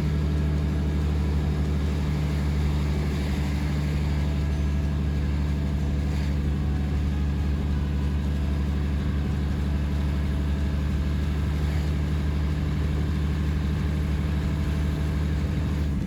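Diesel train engine running at a steady speed, a constant low hum.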